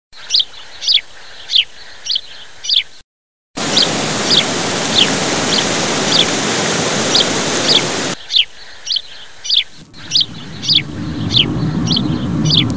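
A small bird repeating short, high, downward-sliding chirps about twice a second. After a brief drop to silence, the steady rush of a fast-flowing river and waterfall runs under the chirps for several seconds, and near the end a low vehicle rumble builds up.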